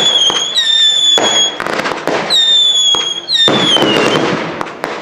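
Display fireworks going off in a rapid barrage: a run of whistles about one a second, each sliding slightly downward in pitch, over sharp bangs and bursts of crackling.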